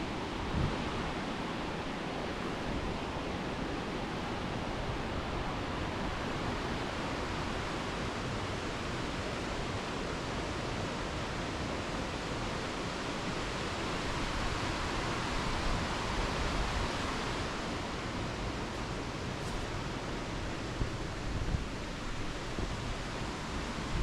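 Waterfall: a steady, even rush of falling water, with a few brief low bumps near the end.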